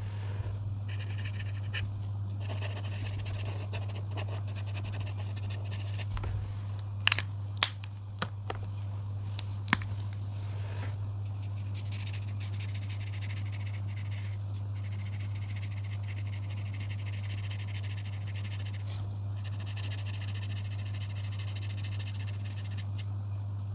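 Coloring tool rubbing across paper in long stretches of soft scratchy strokes that stop and start, over a steady low hum. A few sharp clicks come in a cluster about seven to ten seconds in.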